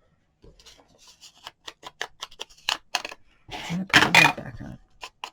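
Scissors snipping paper in quick, uneven cuts, followed about three and a half seconds in by a louder burst of rustling and handling noise.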